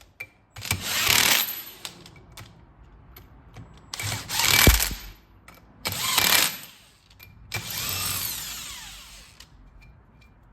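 Impact wrench running ring gear bolts down on a Sterling 10.5 axle's differential carrier in four short bursts. The last burst is longer and ends in a falling whine as the tool spins down.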